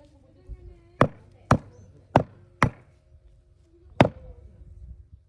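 A cleaver chopping goat meat: five sharp chops, four in quick succession about half a second apart, then one more about four seconds in, with a softer knock before the first.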